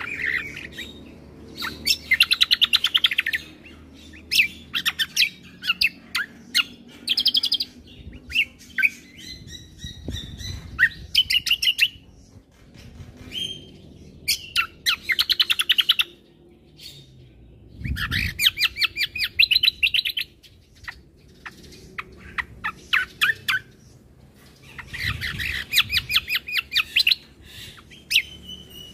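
Kecial kombo (cucak kombo) singing a full, varied song: phrases of rapid high chattering trills, each a second or two long, repeated with short pauses between.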